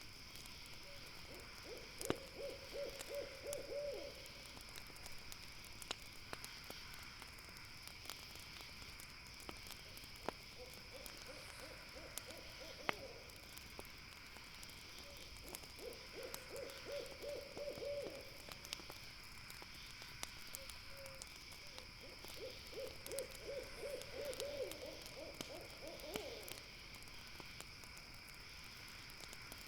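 An owl calling four times, each call a rapid trill of soft hoots lasting a few seconds, the last the longest. Steady high chirring and scattered sharp crackles run beneath.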